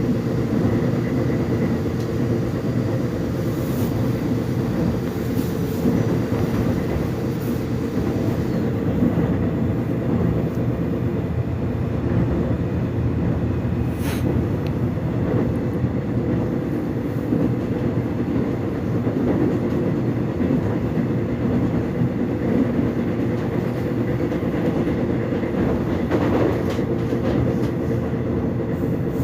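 Inside a Seoul Subway Line 1 express train car running between stations: a steady low rumble of wheels on track with a constant motor hum. One brief sharp click comes about halfway through.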